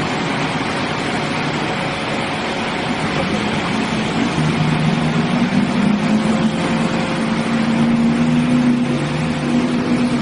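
A truck engine running at a steady speed over a loud rushing noise, its drone growing clearer and holding steady from about four seconds in.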